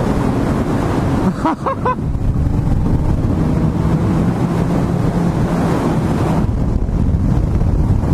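Motorcycle engine running steadily under wind rush on a helmet microphone while riding. The wind rush eases about six and a half seconds in.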